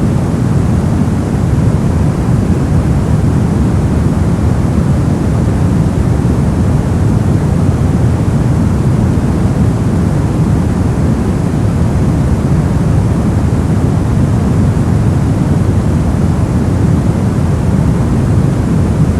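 Steady, unchanging masking noise sold as white noise, but weighted toward the low end, so it sounds deep rather than hissy. No events or changes break it.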